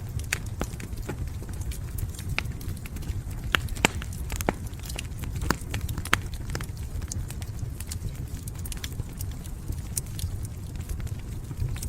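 Wood fire in a fireplace crackling, with irregular sharp pops and snaps over a steady low rumble of the flames; a few louder pops come around the middle.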